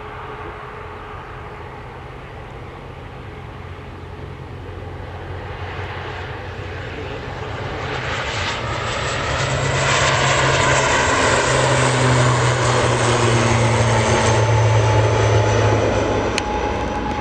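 An airliner passing close by: its engine noise builds over several seconds, is loudest for about six seconds, then begins to fade, with whining tones sliding down in pitch as it goes past.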